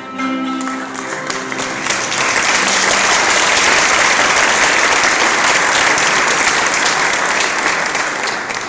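Audience applauding loudly, starting about a second in and dying down near the end, as the plucked-string instrumental music fades out at the start.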